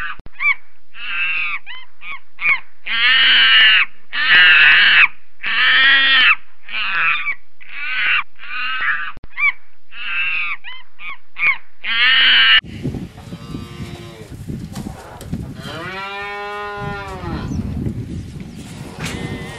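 A monkey gives a run of loud, harsh, high calls of uneven length, about two a second, the longest in the middle. It cuts off suddenly about two-thirds through, giving way to wind and field noise and one long cow moo.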